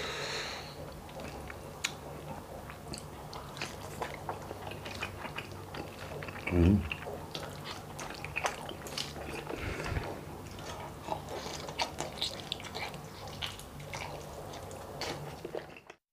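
Close-up eating sounds of a person chewing a mouthful of rice and gelatinous beef balbacua eaten by hand: a string of short wet mouth clicks, with a brief low vocal sound about six and a half seconds in.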